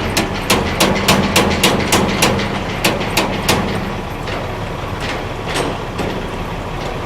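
Semi-trailer landing gear being hand-cranked down, clicking about three times a second; the cranking stops about three and a half seconds in, followed by a few scattered clicks. A truck engine idles steadily underneath.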